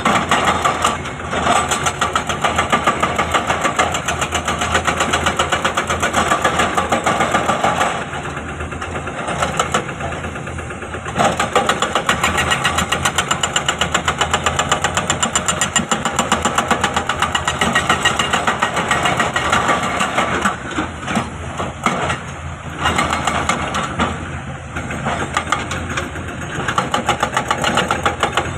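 Excavator's diesel engine running with a rapid, even chugging. It works hard for most of the time and eases off twice, about a third of the way in and again later on.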